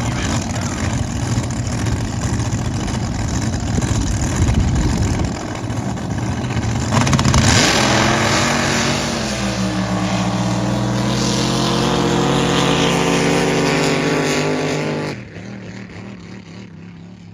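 Drag racing boat engine, a heavy low rumble at first. About seven seconds in it bursts into a loud roar, its pitch easing slightly lower as it runs on, then cuts off abruptly near the end.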